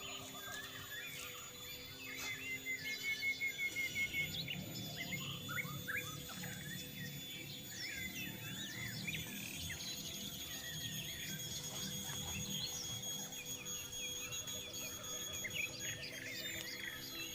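Several forest birds chirping and calling, with a short even trill a couple of seconds in, over steady thin high insect tones.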